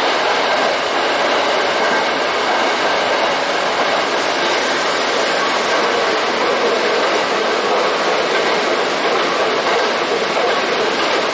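Nose Electric Railway electric commuter train running through a tunnel, heard from inside the front cab: a loud, steady noise of wheels on the rails.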